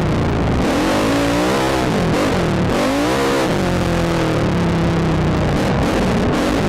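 ATV engine revving up and down repeatedly as the throttle is worked, over a steady rushing noise.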